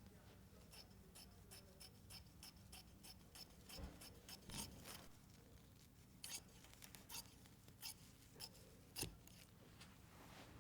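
Scissors cutting fabric: a run of quiet, quick snips, with short gaps between bursts.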